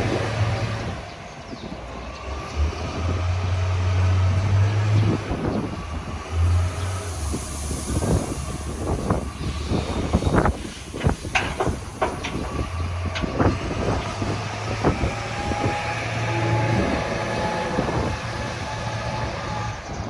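Strong wind buffeting the microphone in gusts, with a low rumble that comes and goes. Through the middle there is a dense run of sharp clicks and rustles from paddy rice grains being poured down in the wind to winnow out the chaff.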